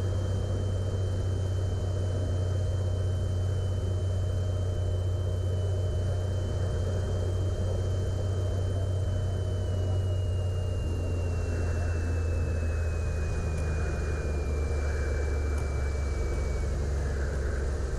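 Light aircraft's engine and propeller drone heard from the cockpit during the landing. A thin high whine holds steady, then slides down in pitch from about ten seconds in as power is taken off.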